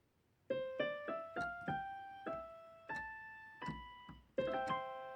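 A short piano intro tune: single notes climbing step by step, ending on a held chord near the end.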